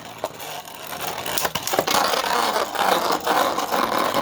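Two 3D-printed Beyblade spinning tops whirring and clashing in a Beyblade stadium: a steady whirring that grows louder from about a second in, broken by several sharp clacks as the tops hit each other.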